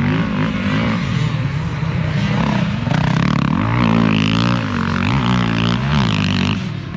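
Motocross dirt bike engines racing on the track, revving up and down through the gears, loudest in the second half as the bikes come near.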